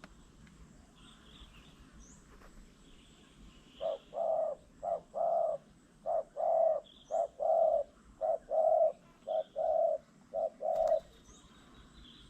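A dove cooing: about six paired coos, each a short note followed by a longer one at the same low, steady pitch, repeated evenly for about seven seconds. Small birds chirp faintly in the background.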